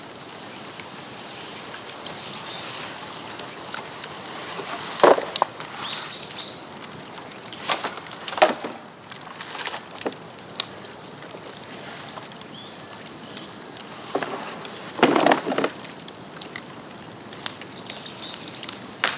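Bamboo bonfire giving off a few sharp cracks and pops, loudest about five, eight and fifteen seconds in.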